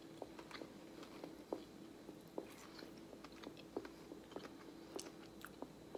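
A person chewing a bite of a marshmallow coated in caramel and cinnamon sugar with the mouth closed: faint, scattered soft mouth clicks and smacks over a faint steady hum.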